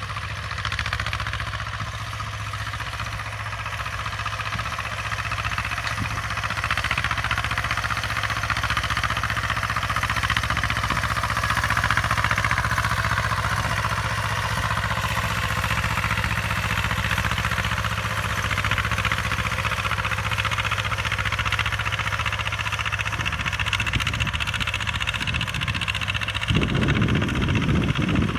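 Belarus T25 tractor's two-cylinder air-cooled diesel running steadily under load while pulling an 18-disc harrow in high gear, with a steady hiss-like clatter over the engine note. Near the end the engine sound turns louder and deeper for a moment.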